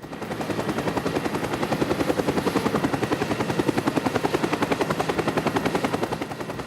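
A rapid, steady chopping sound effect of about ten pulses a second. It starts abruptly and fades out near the end.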